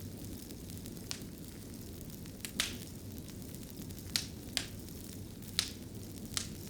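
Fireplace fire crackling: a steady low rumble of the flames with sharp pops about once a second, some coming in quick pairs.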